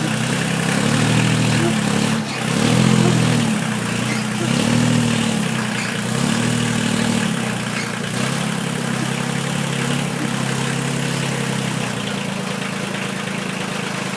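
Tractor engine running under load while manoeuvring, its engine speed rising and falling several times over the first half, then settling to a steadier, slightly lower note near the end.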